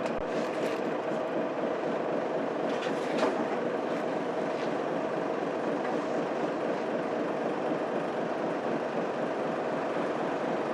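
Inside a Mitsubishi Fuso Aerostar bus on the move: its 6M70 six-cylinder diesel engine running with road and tyre noise. The sound is steady, with a few faint rattles.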